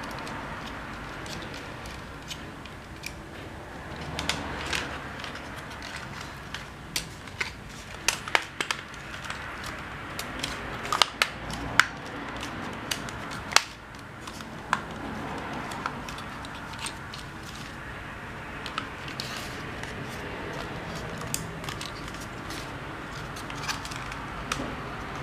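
Hands working on a small plastic drone: irregular sharp clicks, snaps and rattles of plastic parts being handled, coming thickest through the middle, over a steady low background noise.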